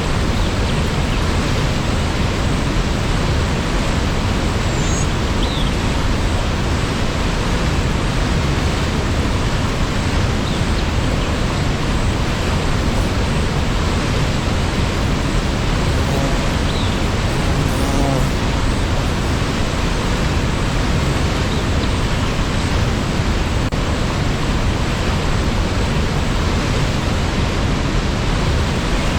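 Waterfall rushing in a steady, unbroken roar of falling water, with a few faint high chirps now and then.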